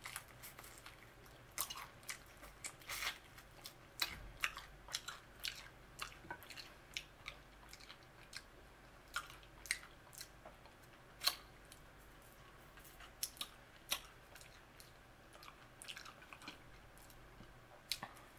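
A person chewing and biting into crispy fried chicken wings and fries, close to the microphone: irregular crunches and mouth clicks.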